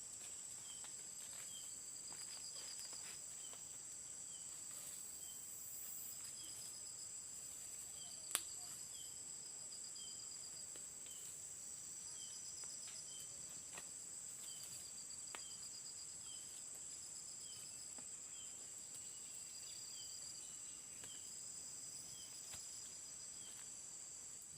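Tropical forest insects such as crickets and cicadas droning steadily at high pitch, with pulsing trills and a short chirp repeating every second or so. One sharp click sounds about eight seconds in.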